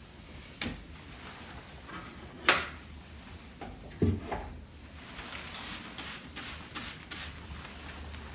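A few separate knocks and thuds of household objects being handled, like a drawer or cupboard being moved, the loudest about two and a half seconds in, followed by a run of light clicks and taps.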